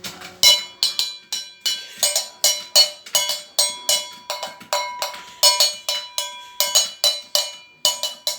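A ringing metal object struck over and over, about three sharp strikes a second with an uneven beat, each leaving a short bell-like ring.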